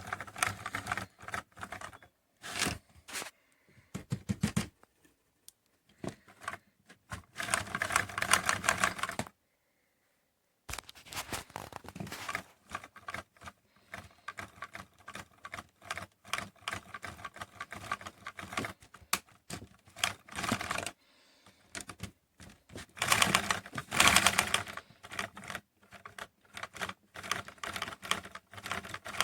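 LEGO vacuum engine running, its plastic pistons and valves making rapid clattering clicks that swell and fade in bursts, with a short break about ten seconds in.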